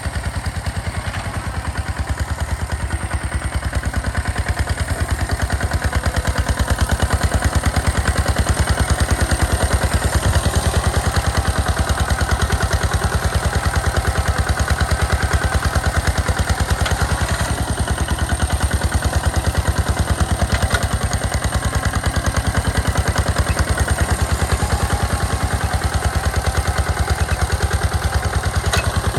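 Engine of a two-wheel hand tractor running steadily with an even, rapid firing beat and some clatter.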